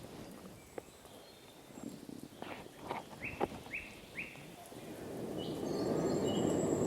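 Forest ambience: a few soft knocks, then three short, identical bird chirps about half a second apart, and a few higher notes after them. Near the end a steady hiss builds up and grows louder.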